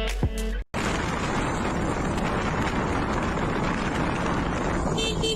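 Music cuts off, then a steady rush of road traffic noise, with a car horn starting to sound near the end.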